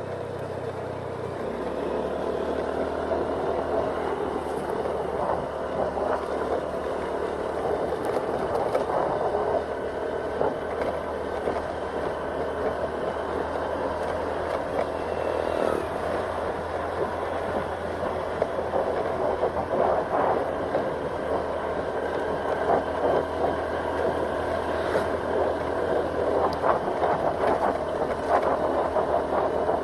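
Honda Scoopy automatic scooter on the move: its small engine running steadily under road and wind noise, with the low engine hum shifting about a second and a half in.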